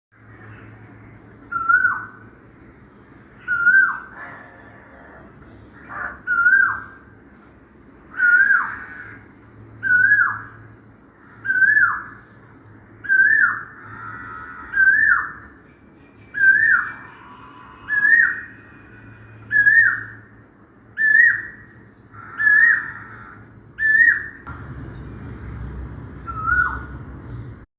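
Asian koel calling: a single loud whistled note repeated about fifteen times, roughly every one and a half to two seconds, each rising slightly then dropping off sharply. Faint high chirps of smaller birds sound behind it.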